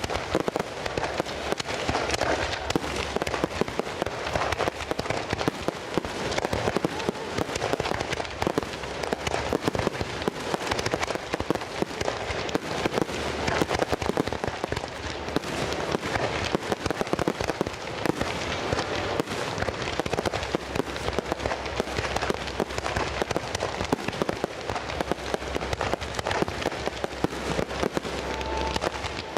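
Fireworks display: a dense, unbroken crackling and popping of many shells bursting at once.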